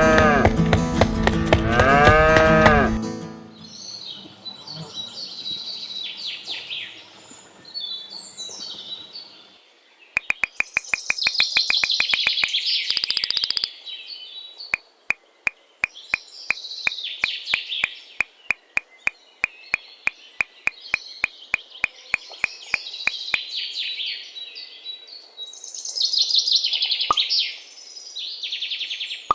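A cow mooing twice, followed by birds chirping. In the middle there is a run of sharp clicks, fast at first and then slower, and a short buzz.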